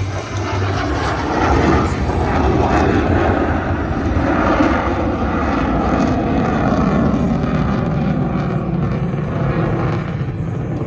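Aircraft engine noise from a fixed-wing airplane flying over: a loud, sustained roar that swells about a second and a half in and holds.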